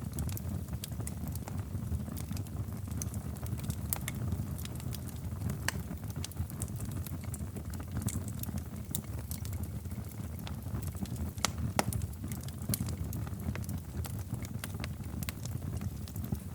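Wood fire crackling in a fireplace: a steady low rumble of burning with irregular sharp pops and snaps, one louder pop near the end.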